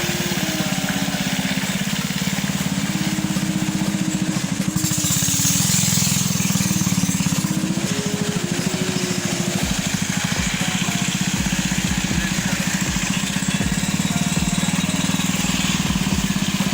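Small engine running steadily at a low, even speed.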